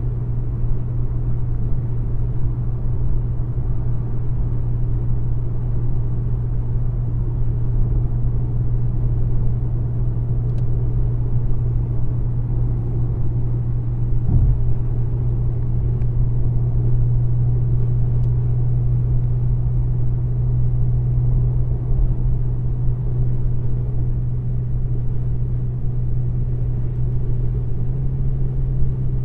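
A car engine running steadily, a constant low drone with no change in speed.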